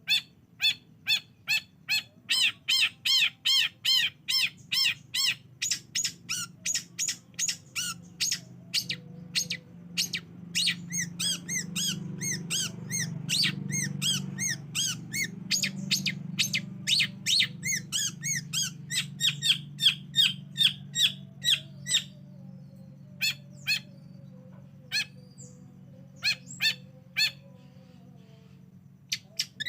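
Long-tailed shrike (cendet) calling in a fast run of sharp chattering notes, several a second, which breaks off about three-quarters of the way through into scattered single notes. A faint low hum lies underneath.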